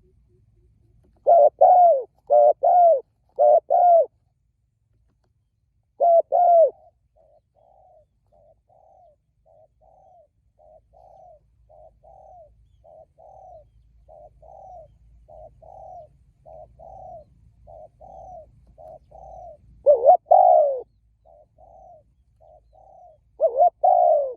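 Spotted doves cooing. Loud coo phrases, four notes in the first few seconds and more later, alternate with a long run of softer, evenly repeated coos that grow gradually louder.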